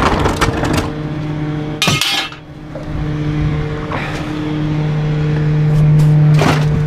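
Garbage truck engine running with a steady hum that grows louder a few seconds in, with metal clanks in the first second and a short sharp hiss about two seconds in.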